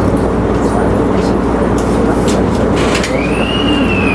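Electric commuter train running along the track, a steady rumble with a few sharp clicks from the wheels over rail joints. Near the end a single high squeal rises and then slowly slides down in pitch.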